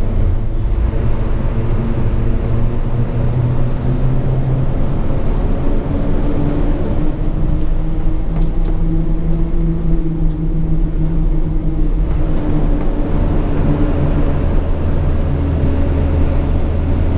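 Hino 500 FM 260 JD truck's six-cylinder diesel engine running under way, heard inside the cab with a heavy low rumble. The engine note shifts in pitch a couple of times as engine speed changes.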